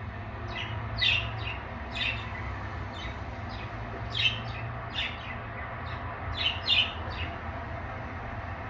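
Pet budgerigars chirping: short, high chirps scattered irregularly, a few close together, over a steady low hum.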